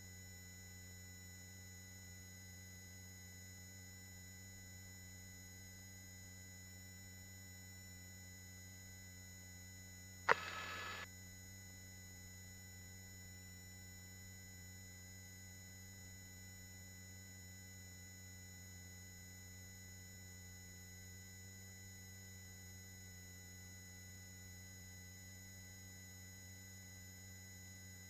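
Faint, steady hum of several level tones on a helicopter's headset intercom feed, with the cabin noise shut out. About ten seconds in, a sharp click and a short burst of hiss lasting under a second break in, like an intercom microphone opening briefly.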